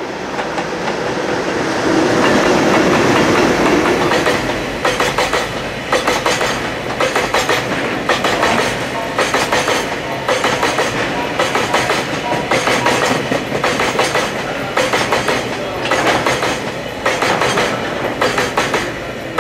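Freight train of tank wagons behind an EH200 electric locomotive passing close by: a steady rumble as the locomotive goes past, then from about four seconds in a rhythmic clickety-clack of the wagons' wheels crossing rail joints, the beats coming in quick groups, until the last wagons pass near the end.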